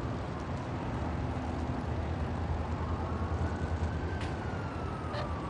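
Steady low rumble of vehicle traffic. In the second half a faint single tone rises slowly, then glides down.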